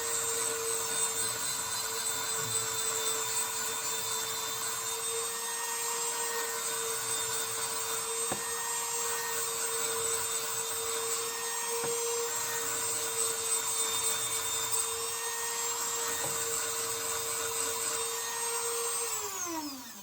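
Dremel rotary tool with a small sanding attachment running at a steady high whine, grinding rust off a rusty RC truck shock. Near the end the tool is switched off and its pitch falls as it spins down.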